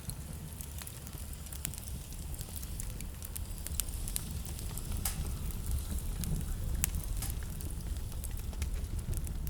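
Wood fire crackling, with irregular sharp pops scattered through it, over a steady low rumble of blizzard wind.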